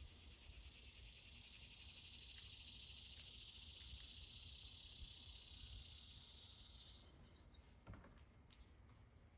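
A steady high-pitched hiss that swells over a few seconds, holds, then cuts off suddenly about seven seconds in, followed by a few faint clicks.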